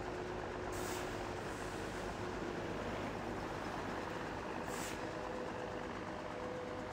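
A very heavy train's cars rolling past over century-old track: a steady rumble and rattle of wheels on rail. Two brief high hisses come about a second in and near five seconds.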